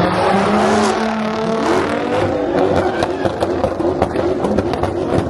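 Car engine revving hard in a burnout pit, its pitch held high and then wavering up and down, with sharp clicks and crackles through the second half.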